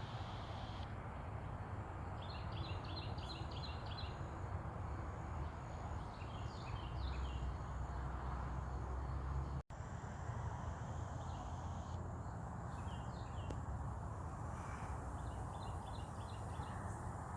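Wind rumbling on the microphone over a steady outdoor hiss, with a bird's quick runs of high chirps breaking in four times.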